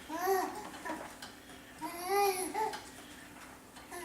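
Young baby babbling and cooing: two high-pitched, rising-and-falling vocal sounds, one at the start and one about two seconds in.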